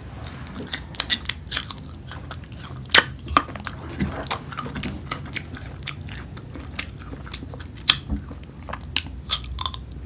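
Biting and chewing crunchy unripe green mango: irregular sharp crunches, the loudest about three seconds in and again near eight seconds.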